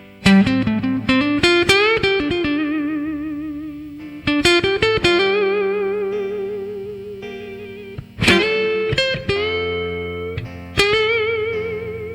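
Instrumental blues guitar solo: a quick run of plucked notes sliding upward in pitch, then long held notes with a wide vibrato, each slowly dying away. New phrases begin at about four, eight and eleven seconds in, over a steady low backing.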